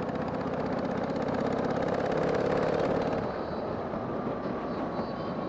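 Harley-Davidson Sportster 883's air-cooled V-twin engine running steadily while riding, with wind and road noise. The engine note swells slightly about two seconds in and eases off after three.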